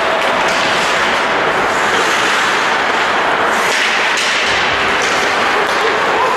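Steady din of a match in play in a large hall, with a few sharp knocks and slaps about halfway through.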